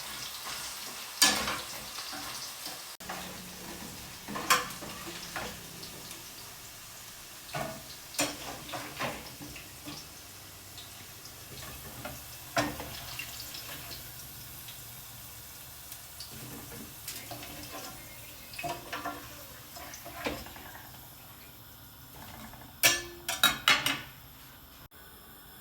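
Food frying in a pan with a steady sizzle, stirred with a utensil that knocks against the pan now and then, with a quick run of knocks near the end.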